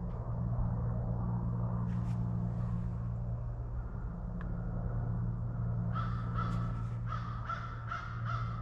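A Husqvarna riding lawn mower's engine runs with a steady hum after an oil and filter change, restarted to check for leaks at the new filter. About six seconds in, a quick series of short bird calls comes in over it.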